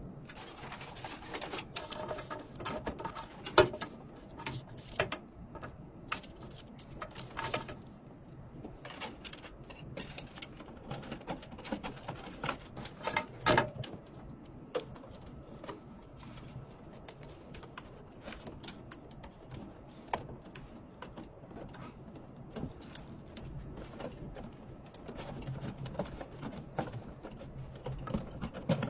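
Irregular clicks, taps and light knocks of computer parts being handled and fitted together, with two louder knocks, one a few seconds in and one about halfway through.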